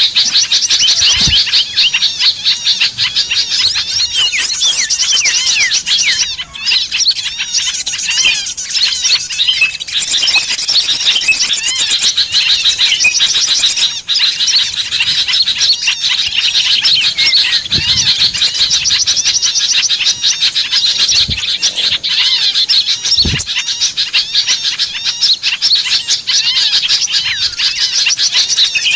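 Dense, continuous chorus of many small birds chirping and trilling rapidly over one another: a lure call for drawing small wild birds in. A few soft low thuds sound in the second half.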